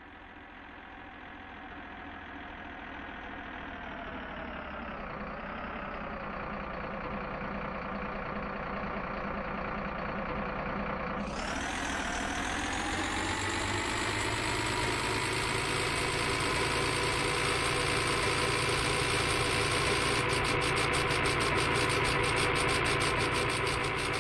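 Truck engine sound idling and fading in gradually; about eleven seconds in it dips briefly, then revs up to a higher, steady pitch.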